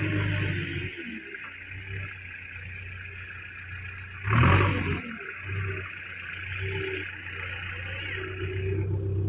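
JCB backhoe loader's diesel engine running, easing off after about a second and building again near the end, with one loud, brief noise about four and a half seconds in.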